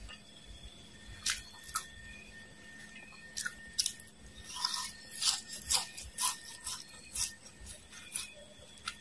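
Crisp crunching of fried dried worms and mole crickets being bitten and chewed close to the microphone: a few sharp separate cracks at first, then a dense run of crunches from about four and a half to seven seconds in.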